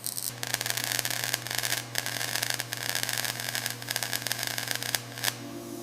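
Welding on a car body panel, a steady crackling hiss with a few short breaks that stops a little after five seconds in.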